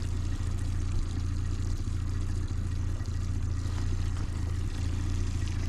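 Boat motor idling steadily at low speed, a constant low hum.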